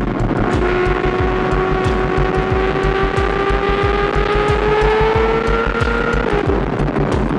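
Kawasaki ZX6R 636cc inline-four engine running at high revs under way, its note climbing slowly and steadily, then dropping in pitch about six seconds in. Heavy wind buffeting on the clip-on mic underneath.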